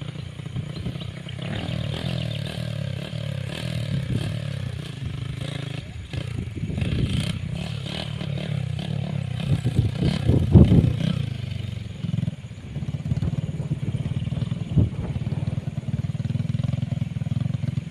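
Motocross dirt bikes running on a practice track, their engines revving up and falling back again and again, loudest about ten seconds in.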